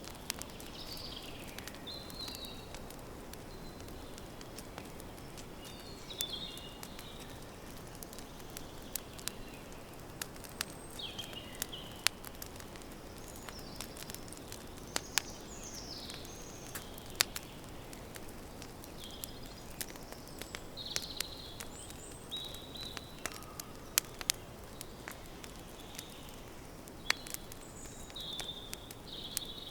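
Wood campfire crackling, with frequent sharp pops over a steady low rush, while birds chirp in short calls throughout.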